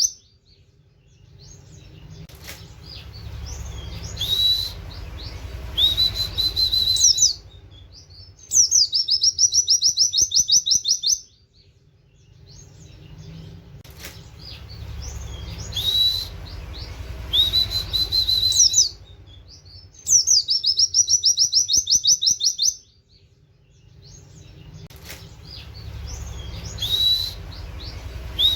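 White-eye song: a fast, loud high trill lasting a couple of seconds, then single upward-sweeping 'wit' whistles over a low rumbling noise. The same sequence repeats about every eleven and a half seconds.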